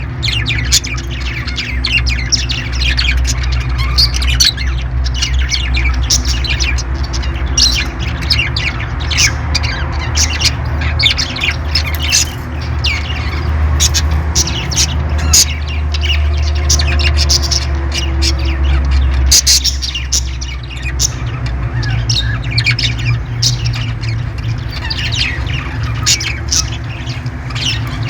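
Parrots squawking and chirping in short, sharp calls one after another, over a steady low rumble.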